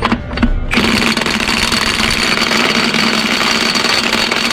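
Milwaukee cordless impact wrench running in one long steady burst that starts about a second in, its motor whine held under a dense hammering rattle, after a couple of short trigger clicks.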